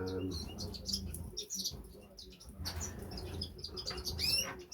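Canaries and other small cage birds chirping, many short high calls overlapping, with one rising whistled call near the end, over a steady low hum.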